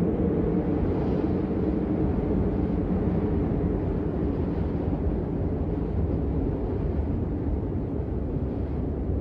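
Blizzard wind ambience: a steady, deep rush of wind noise with no distinct crackles or knocks.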